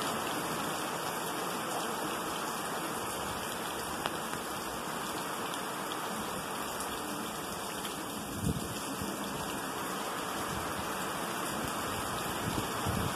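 Steady rain falling, an even hiss without pause, with a soft low bump about eight seconds in.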